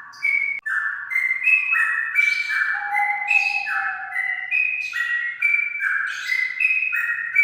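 Straw-headed bulbul (cucak rawa) singing a loud run of clear whistled notes, stepping up and down in pitch one after another, with a lower drawn-out note about three seconds in.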